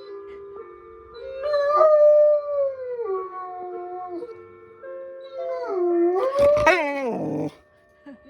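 A dog howling along with the noon chime melody: two long howls, the first sliding down in pitch, the second rising and then falling, over the chime's steady held notes.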